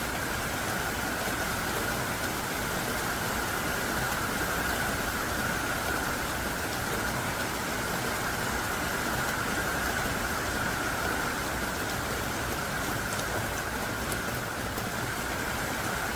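Heavy rain pouring down steadily: a dense, even hiss of large, hard-falling drops.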